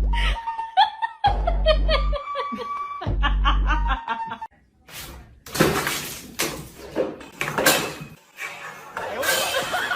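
About four seconds of music with heavy bass pulses and falling whistle-like tones, then a person laughing in uneven bursts, mixed with sharp clattering noises.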